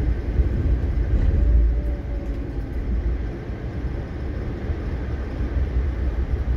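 Steady low rumble of an Amtrak Northeast Regional train rolling along, heard from inside the passenger coach as it comes into a station.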